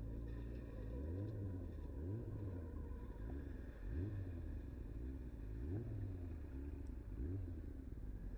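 Vehicle engine accelerating through the gears. Its pitch rises and drops back about five times as it shifts up, over a steady low rumble.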